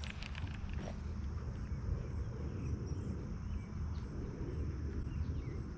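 Outdoor ambience: a steady high insect drone, with a few faint short chirps, over a constant low rumble.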